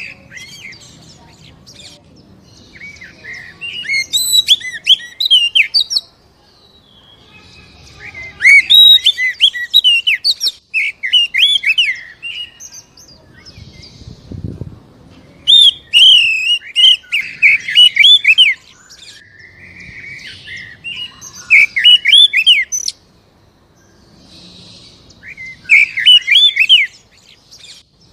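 Oriental magpie-robin singing in loud bursts of rapid, varied whistles and sharp notes, about five phrases of one to four seconds each, separated by short pauses.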